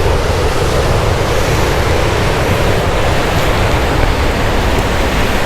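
Ocean surf breaking steadily on the shore, a loud continuous wash of noise, with wind rumbling on the microphone.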